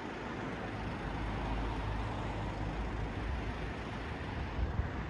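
Audi car engine idling with a steady low rumble.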